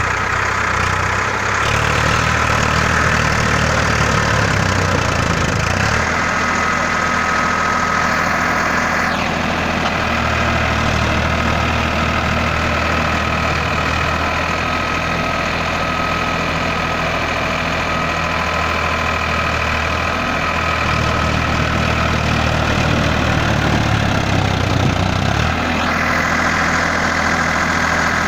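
Tractor diesel engine running at a fairly steady speed, its low note shifting up and down several times as the revs change.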